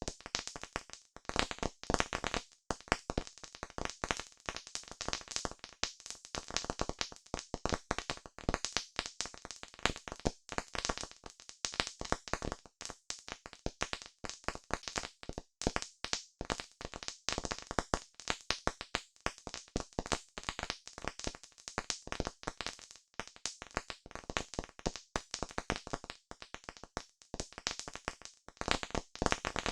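Campfire crackling: a dense, irregular stream of pops and snaps from burning wood.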